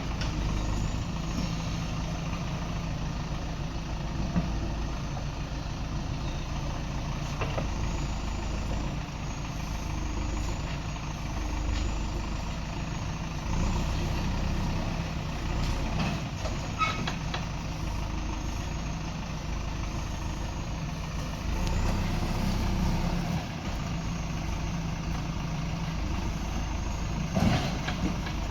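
Backhoe loader's diesel engine running steadily, with a few short knocks scattered through.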